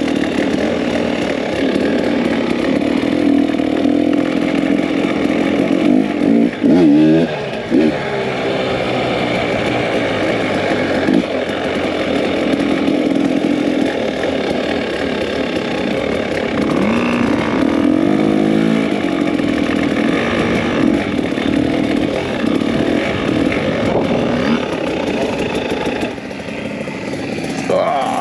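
Two-stroke dirt bike engine running under way, its revs rising and falling a few times as the bike rides along.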